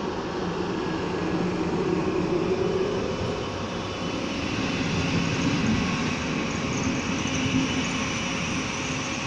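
Passenger train's couchette cars rolling past close by, a steady rumble of wheels on rails. A faint high squeal comes in about halfway through.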